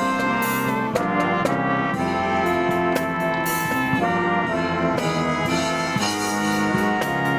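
Brass marching band playing a Christmas medley, trumpets and trombones sounding held chords that change every second or so.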